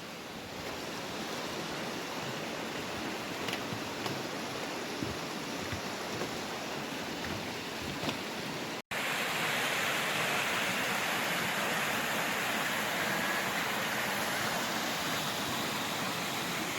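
Mountain valley stream rushing over rocks, a steady even rush of water. It cuts out for an instant about nine seconds in and comes back louder and brighter, as a second stretch of water begins.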